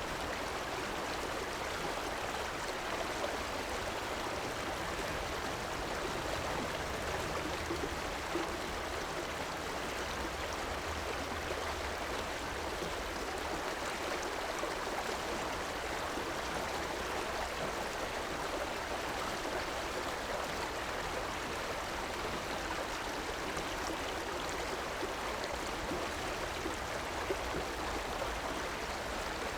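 Steady rushing and gurgling of a river's flowing water, with a faint low rumble underneath.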